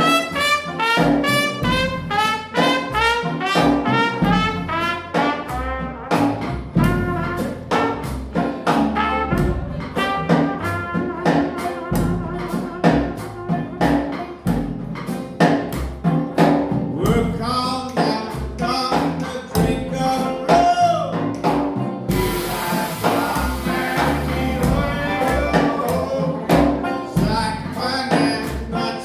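A traditional jazz band playing live, with trumpet and trombone carrying the tune over a steady beat.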